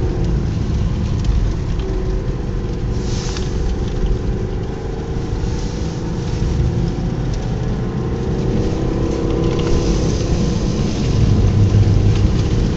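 Car engine running and road noise heard from inside the cabin while driving, a steady low rumble with the engine note drifting slightly up and then back down through the middle. A short hiss comes about three seconds in.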